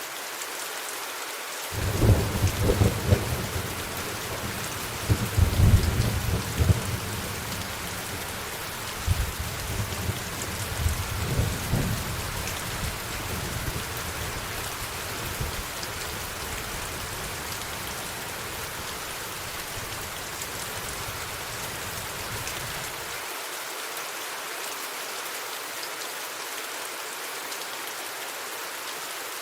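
Steady rain hissing, with a peal of thunder that breaks about two seconds in, cracks and rolls loudest over the next ten seconds, then rumbles away until its low rumble stops suddenly about three-quarters of the way through.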